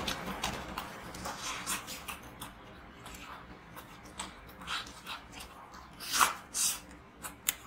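Close-miked biting and chewing of a fried chicken thigh: irregular wet mouth sounds and sharp clicks, with the loudest bites about six seconds in.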